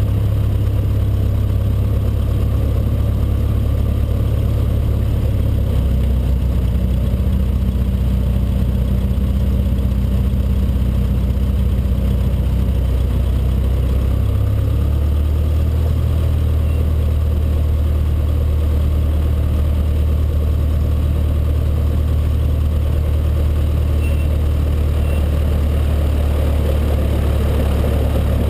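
Cessna 152's four-cylinder Lycoming engine running steadily at low power, its pitch shifting about six seconds in and again about fifteen seconds in as the power setting changes.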